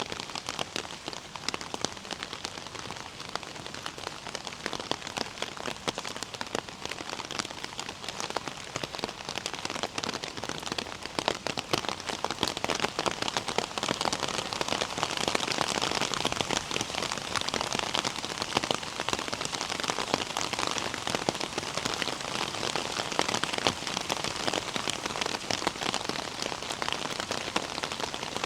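Steady rain, dense with sharp close drop hits, growing a little heavier about halfway through.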